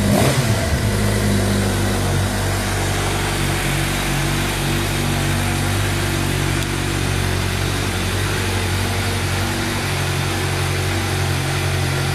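Suzuki GSX-R600 K8 inline-four motorcycle engine idling through its stock exhaust. It comes down from a throttle blip in the first second, then holds a steady idle.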